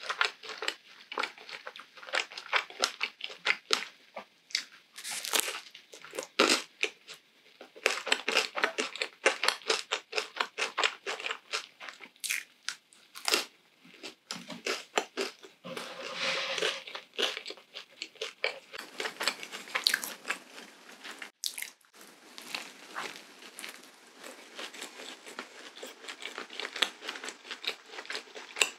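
Close-miked chewing of a waffle sandwich filled with whipped cream, strawberries and chocolate: dense quick clicks, smacks and soft crunches of the waffle crust.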